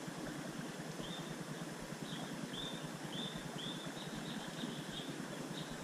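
A bird calling in short, arched chirps, about two a second, starting about a second in, over a steady outdoor hiss.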